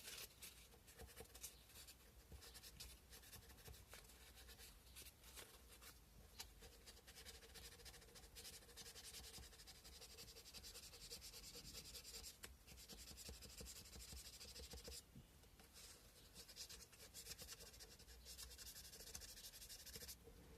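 Sandpaper rubbed by hand on a carved cow-bone fish hook: a faint, continuous scratchy rasp, with short pauses about fifteen seconds in and near the end.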